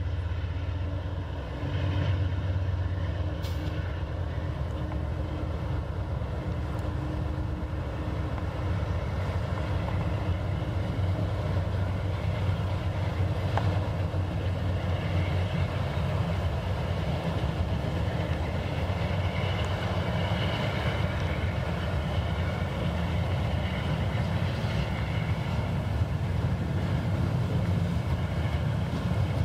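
A long double-stack intermodal freight train rolling past close by: the steady noise of steel wheels running on the rails under loaded container well cars.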